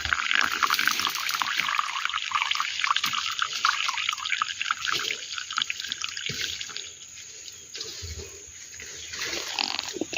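Spring water trickling and splattering from a natural water source. It runs busiest for the first six or seven seconds, then grows fainter.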